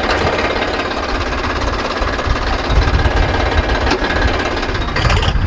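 VST Shakti 9054 DI tractor's Kirloskar diesel engine running with a steady diesel clatter, a sound the owner calls smooth and good.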